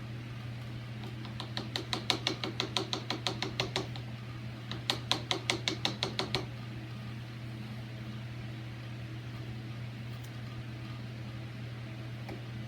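Hammer tapping a chisel lightly and quickly to pare out the latch recess in a fiberboard door edge: two runs of taps, about five or six a second, in the first half. A steady low hum runs underneath.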